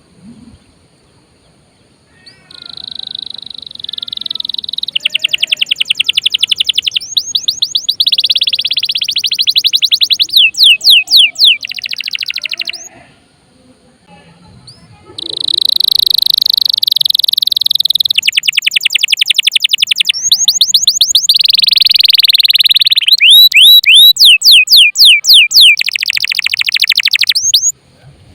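Domestic canary singing loudly in two long phrases of fast trills and rapidly repeated chirps, with a pause of about two seconds in the middle. The song stops abruptly near the end.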